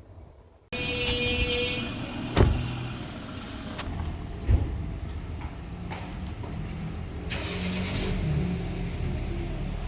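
Steady motor vehicle noise, with two sharp knocks, one about two and a half seconds in and another about four and a half seconds in.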